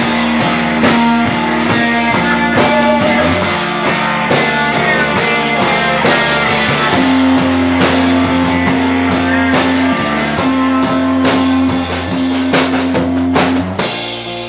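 Live rock band playing an instrumental passage on electric guitars and drum kit with a steady beat. About a second before the end the drums stop and the guitars ring on as the song finishes.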